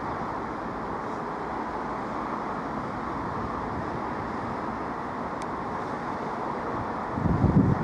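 Sprinter diesel multiple unit approaching at low speed, a steady running noise from its engine and wheels on the rails. Wind begins buffeting the microphone near the end.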